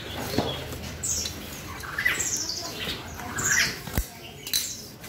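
Caged birds calling: about four harsh chirps about a second apart, each sliding quickly down in pitch, with a single sharp click about four seconds in.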